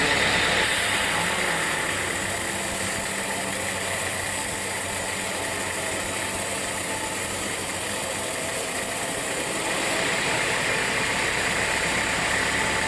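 Sawmill machinery running steadily, a low engine-like hum under a broad hiss, a little quieter through the middle and louder again near the end.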